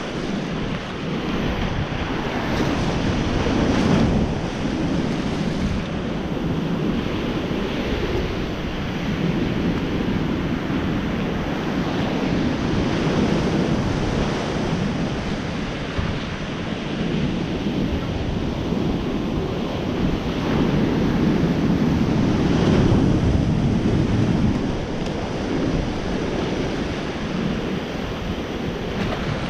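Wind buffeting the microphone over the sound of the sea, the noise swelling and easing every few seconds.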